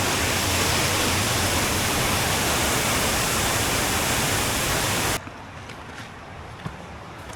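Steady rush of a waterfall, an even full-range noise that cuts off abruptly about five seconds in, leaving only faint background noise with a few light ticks.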